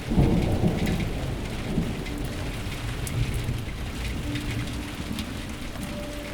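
Storm noise: a low rumble with a hiss over it, loudest at the very start. A single held low note comes in about four seconds in.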